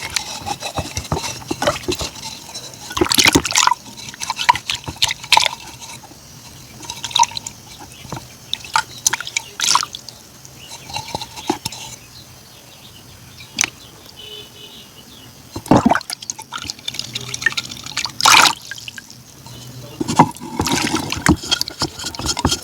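Close-up wet eating sounds of ice cream being eaten: irregular crunches, smacks and slurps, with louder bites now and then.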